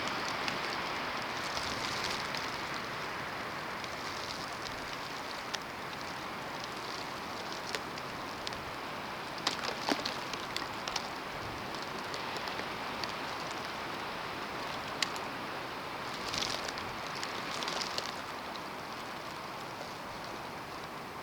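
Steady hiss of a snowstorm, with scattered small ticks and a few brief louder gusts of hiss.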